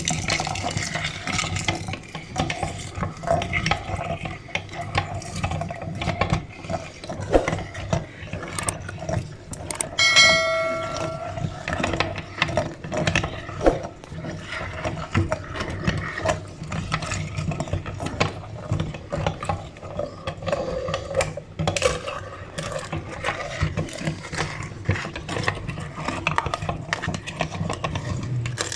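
Meat grinder working through eggs: a dense, irregular clatter of crunching and rattling. About ten seconds in there is a single brief metallic ring.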